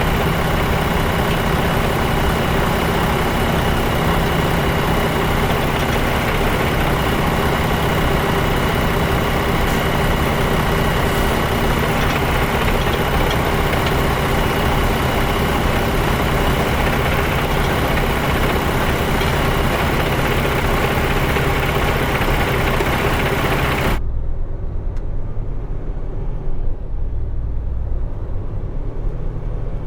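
Peterbilt semi truck's diesel engine idling, loud and steady close to the microphone. About 24 seconds in the sound drops abruptly to a quieter low rumble.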